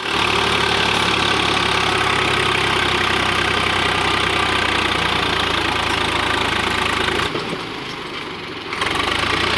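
Swaraj 735 FE tractor's three-cylinder diesel engine running steadily. About seven seconds in, its low note drops away for a second and a half, then comes back.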